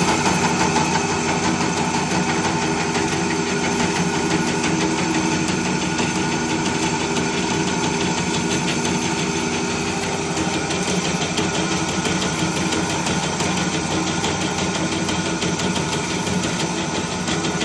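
Old drill press running, its bit drilling dry into a thick piece of metal, with no cutting lubricant. The loud, steady machine sound has several steady hum tones; it is a lot of noise.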